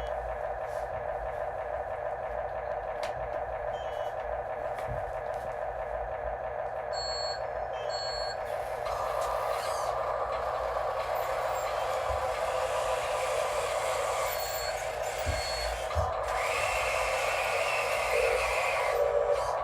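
Radio-controlled construction machines running: a steady whine of small electric motors and gears, with more motors joining in about halfway through and again near the end, and a few short high beeps.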